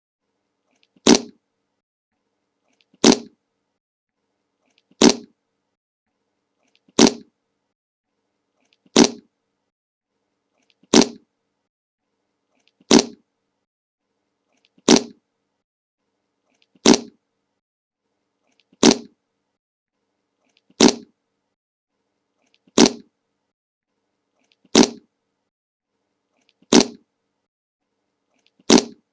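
The same short fart sound effect, the 'Le Monke' meme fart, played over and over about every two seconds, fifteen times, with silence between each one.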